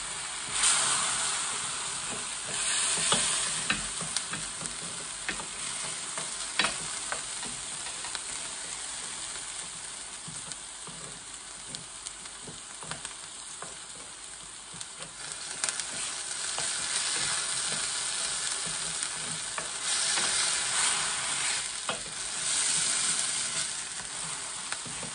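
Frozen garlic and ginger cubes sizzling in olive oil in a stainless steel electric skillet, stirred with a wooden spoon that scrapes and clicks against the pan now and then. The sizzle swells louder several times.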